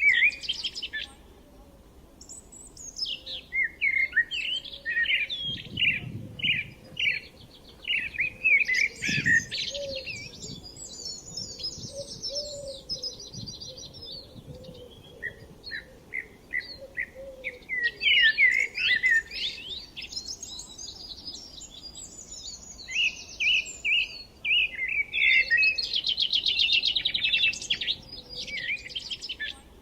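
Several songbirds singing and chirping at once: quick, repeated chirps overlapping with fast trills, in phrases separated by short pauses.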